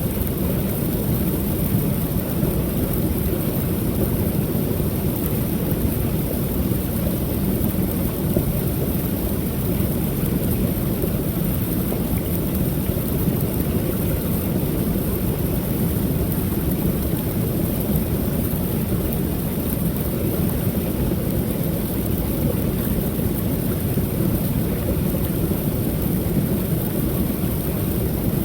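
Waterfall on a creek: a steady, dense rush of falling water, heavy in the low rumble, with no change throughout.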